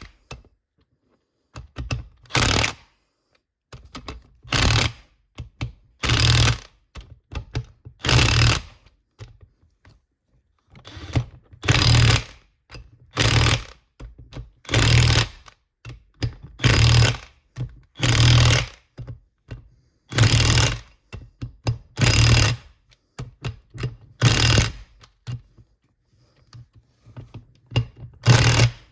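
Impact wrench on its maximum setting hammering in short bursts, one after another, about a dozen times, as each bolt on the transmission is gone over and checked for tightness.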